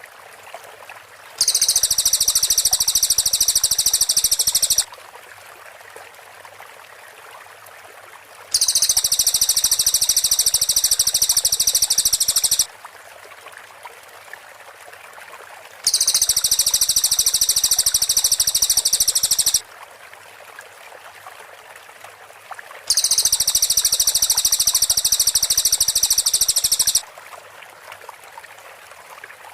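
Cililin bird singing its fast, rapid-fire rattling trill, the tight 'shots' that make it a training song for murai batu. Four loud, high trills of about four seconds each, a few seconds apart, over a steady background hiss.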